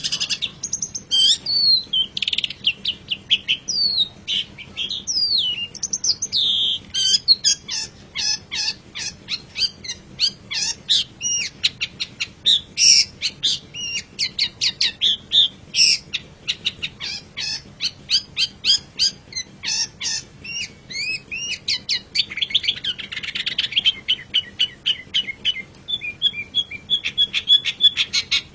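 Long-tailed shrike (cendet) singing a fast, varied song of high chirps, short slurred whistles and quick repeated notes. About 23 seconds in there is a harsher scratchy stretch, and near the end a fast even chatter.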